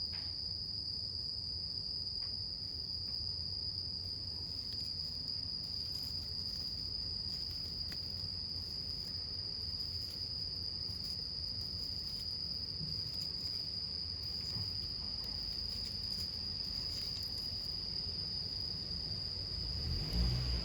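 Steady, unbroken high insect trill, typical of crickets, over a wood campfire with faint scattered crackles and a low rumble. A louder low bump comes near the end.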